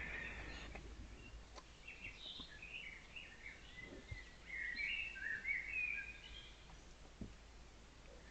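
Songbirds singing and chirping in the forest, a run of short high phrases that is busiest a little past the middle, over a steady hiss from the trail camera's microphone, with a couple of faint low knocks.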